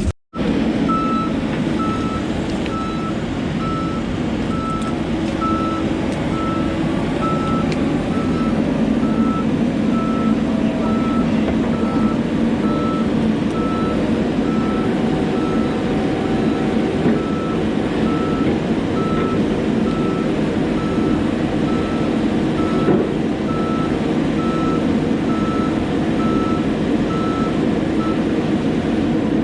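Backup alarm on a piece of diesel logging equipment, beeping about once a second as the machine reverses, over its engine running steadily.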